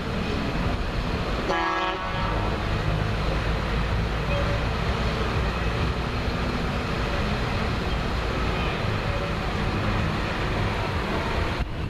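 Tractor engines running steadily, with a short horn toot about a second and a half in.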